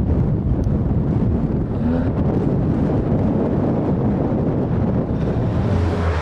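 Heavy wind buffeting the microphone: a loud, dense low rumble that covers everything, with a rally car's engine only faintly under it.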